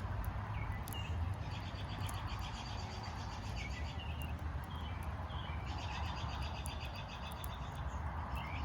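Birds chirping in rapid repeated trills and short chirps, with the faint crackle of a wood fire over a steady low rumble.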